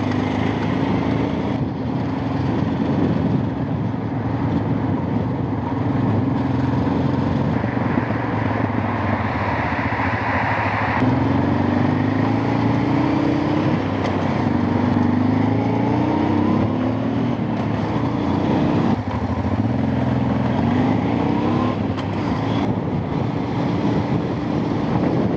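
Vehicle engine running on the road, first at a steady pitch and then, about ten seconds in, accelerating through the gears: the pitch climbs and drops back at each shift, several times over.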